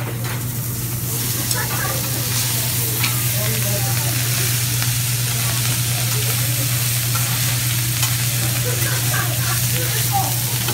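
Food sizzling on a hot griddle: a steady frying hiss with a constant low hum underneath.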